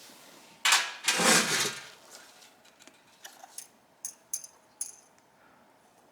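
A short, loud rush of noise in two quick bursts about a second in, then small metal carburetor parts clinking sharply several times as the carburetor is worked apart.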